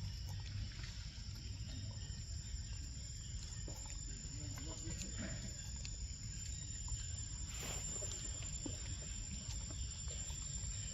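Outdoor ambience: a thin, steady high whine over a low rumble, with scattered small clicks and rustles and a louder rustle about seven and a half seconds in.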